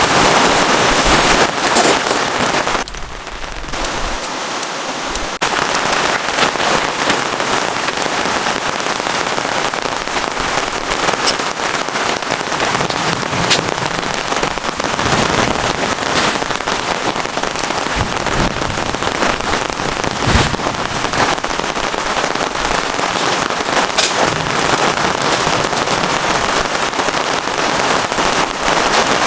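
Heavy rain falling steadily, a dense hiss dotted with sharp drop hits, briefly quieter and duller about three seconds in.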